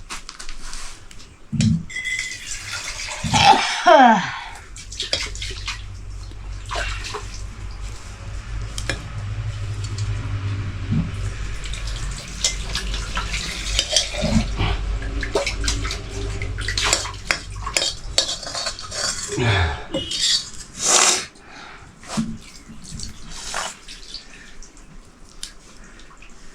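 Metal pots, dishes and utensils clinking and knocking in a kitchen, with water being poured in.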